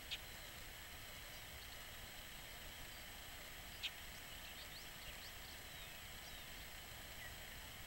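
Faint bird calls over a steady hiss: a sharp single chip right at the start and another about four seconds in, followed by a few quick, thin chirps.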